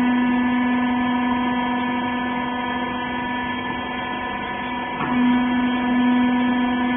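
Steady electric machine hum with one strong low pitch and overtones, typical of the wiper-rag baler's hydraulic pump motor running. A brief knock about five seconds in.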